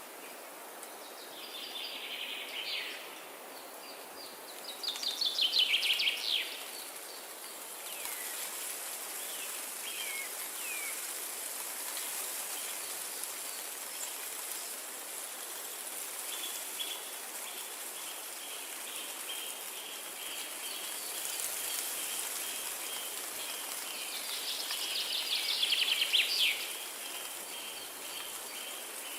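Songbirds singing over a steady hiss of wind through forest trees. There are fast trills, loudest about five seconds in and again near the end, a few short falling notes, and a long run of quick repeated notes through the second half.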